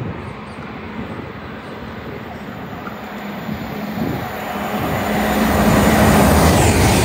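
A GWR Intercity Express Train approaching at speed, its rumble and steady hum growing louder over the second half.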